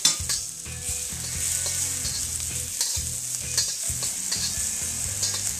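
Minced garlic, sliced Thai chilies and green onion whites sizzling in a little hot oil in a wok, with a utensil scraping and stirring against the pan.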